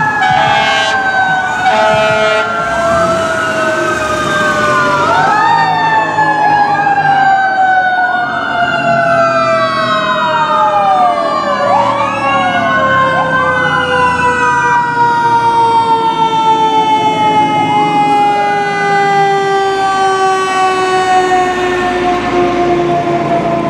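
Several fire-apparatus sirens sounding together: one pitched siren tone winds slowly and steadily downward in pitch, while wailing sirens rise and fall repeatedly over it, with the low rumble of the trucks' engines beneath.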